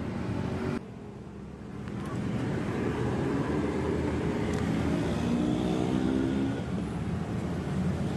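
A motor vehicle engine running with a steady low hum, its pitch climbing slightly a little past the middle.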